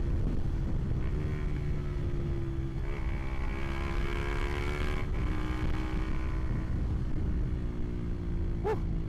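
Honda CB150R's single-cylinder engine running through a Proliner aftermarket exhaust with its dB killer fitted, while riding: a steady engine note that rises a little and drops back about five seconds in, over low wind rumble on the microphone.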